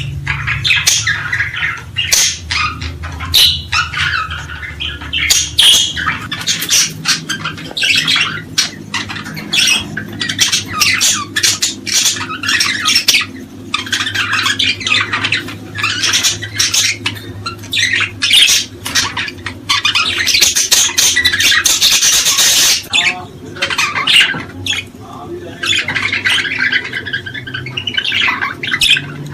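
A flock of small cage birds calling and squawking continuously, many overlapping sharp calls with no pause.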